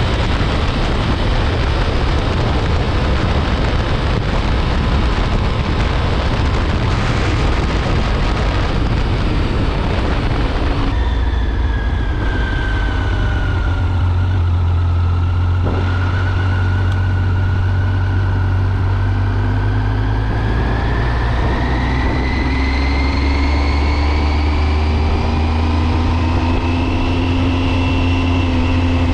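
Triumph Speed Triple's 1050 cc three-cylinder engine and exhaust on the move, heard under heavy wind rush. About eleven seconds in, the wind noise drops away and the engine note comes through clearly: it dips, then climbs steadily as the bike pulls harder.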